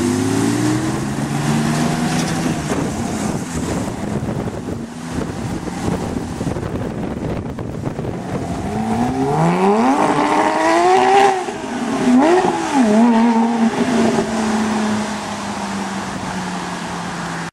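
Porsche 997.2 GT3 RS's 3.8-litre flat-six through a Shark Werks muffler-bypass exhaust. The engine note climbs at first, then lies faint under a steady rush of noise for several seconds. About nine seconds in it revs up hard and drops at a shift just after eleven seconds, blips twice, then settles into a steady low drone that slowly falls in pitch.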